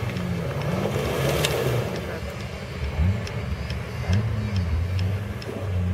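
Jeep Wrangler engine revving up and down at low speed as the 4x4 crawls through a deep mud trench under load, its pitch rising and falling several times.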